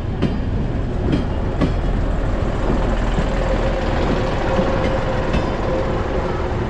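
Red-and-white multiple-unit passenger train running past close alongside the platform: steady rumble of the wheels and running gear, with a few sharp wheel clacks early on and a steady hum that comes in about halfway.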